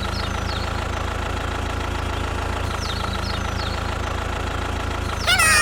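Small engine of a DIY mini tractor idling steadily with an even, fast knocking pulse. A loud high-pitched gliding sound, like a squeaky voice, starts near the end.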